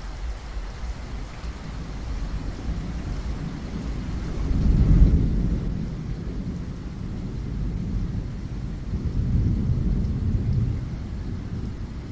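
Steady rain hissing, with thunder rumbling low underneath: one rumble swells to a peak about five seconds in and fades, and a second, longer and softer rumble follows near the end.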